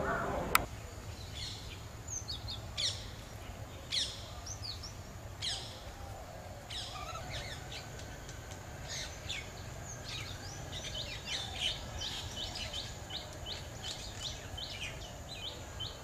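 Small birds chirping: short, sharp calls scattered at first, then from about eleven seconds in a quick, steady series of repeated chirps, over a low background rumble. A sharp click just after the start.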